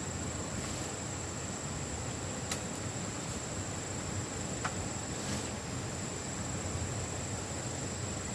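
A steady high-pitched insect trill, like a cricket or cicada, over outdoor background noise, with two sharp clicks, one about two and a half seconds in and one a couple of seconds later.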